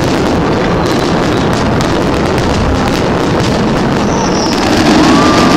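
Fireworks display: a dense, steady wash of crackling with many small sharp pops, and a brief whistle about four seconds in.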